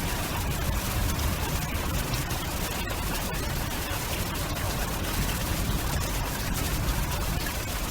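Stormy weather: rain and wind as a steady, dense hiss over a low rumble, with no single event standing out.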